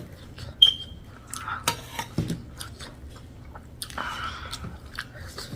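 A person chewing and eating close to the microphone, with wet mouth clicks and smacks. One short, high clink rings out about half a second in.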